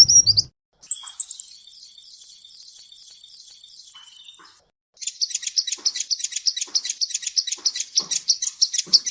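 Songbird song in edited passages. First comes the brief end of one trill, then about three and a half seconds of very high notes repeated fast and evenly, about a dozen a second. After a short silence a buzzy, rattling run of lower notes follows and cuts off suddenly.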